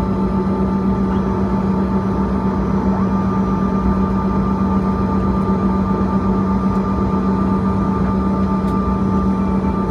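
Cabin noise of a Bombardier CRJ-200ER with its rear-mounted GE CF34 turbofans running: a steady low rumble with a constant hum and a higher whine that hold level throughout, with no spool-up.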